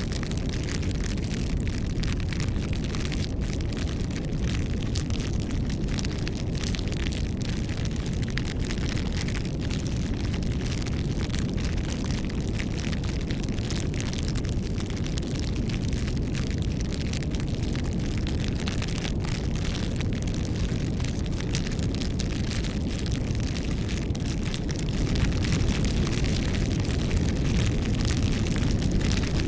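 Wood fire burning: a steady low roar of flames with frequent small crackles and pops of burning wood.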